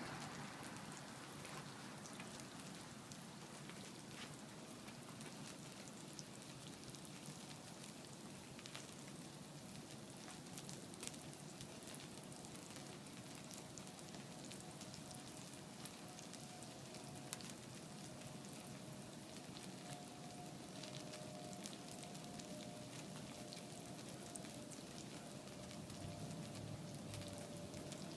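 Burning candle wax and cake in one large fire, a faint steady hiss with scattered crackles and pops. A faint steady tone sets in about four seconds in.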